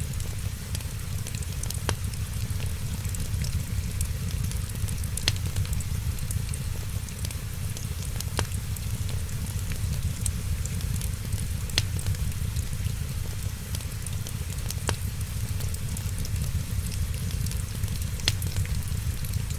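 Wood fire crackling over a steady low rumble and fine hiss, with a sharp pop about every three seconds and smaller crackles between.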